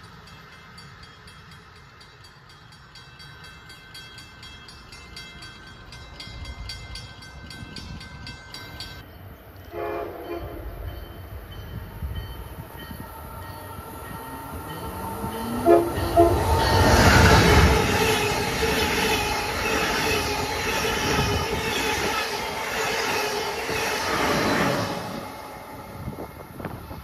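Amtrak Acela high-speed trainset sounding short horn blasts as it approaches, then passing at speed in a loud rush of wheel and wind noise that fades near the end.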